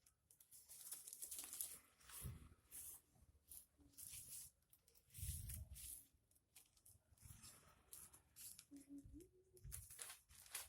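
Packaging being opened by hand: irregular rustling, tearing and scraping with a few dull knocks, fairly faint.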